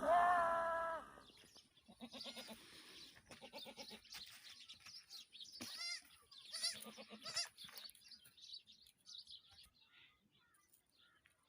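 An animal calling: one strong pitched cry lasting about a second at the start, then several fainter wavering cries over the next few seconds.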